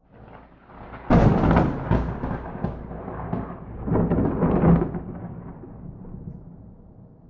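Thunder: a sudden sharp crack of a close lightning strike about a second in, a second loud peal around four seconds, then a long rolling rumble that slowly fades.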